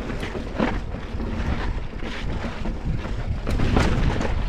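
Wind buffeting the microphone as a mountain bike rolls over slickrock, with short knocks and rattles from the bike several times over the rumble.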